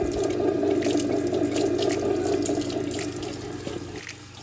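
Water running steadily from a tap into a sink, with small splashes, easing off near the end.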